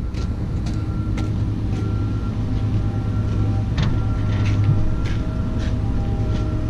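Steady low drone of a running vehicle, with a few faint steady tones above it and scattered light clicks or rattles.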